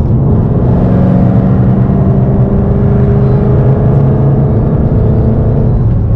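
Ford Mustang engine heard from inside the cabin, pulling under acceleration, its pitch rising slowly before easing off near the end.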